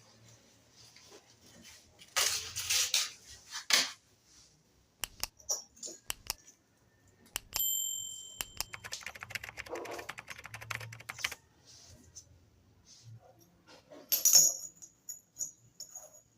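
Hand handling of a hair-clipper blade set: scattered clicks and rustles, a short metallic ring about seven and a half seconds in, then a couple of seconds of dense crackling.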